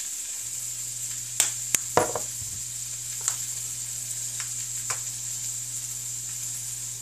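Peppers and onions sautéing in a frying pan, sizzling steadily, with a few sharp clicks of utensils, most of them in the first couple of seconds. A steady low hum starts about half a second in.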